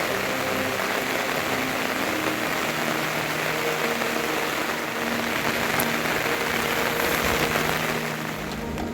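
Steady rain falling, a dense even hiss of drops on surfaces that thins near the end.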